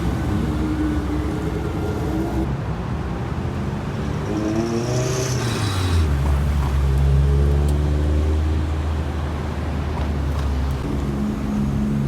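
Car engines as cars drive slowly out past the listener: one revs up with a rising pitch about four seconds in, then a deep engine drone holds close by for several seconds before easing off.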